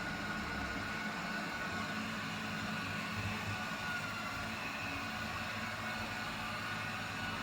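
Eufy RoboVac G30 robot vacuum running, its suction fan and brushes making a steady whir with a faint high whine.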